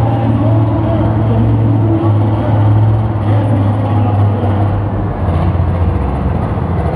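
Engine of a pulling tractor or truck running loudly at a steady speed, its pitch dropping a little about five seconds in.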